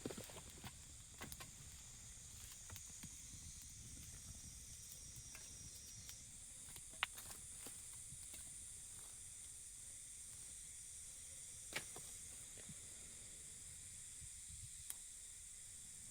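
A steady high-pitched hiss with a few sharp clicks or taps, the loudest about seven seconds in and another near twelve seconds.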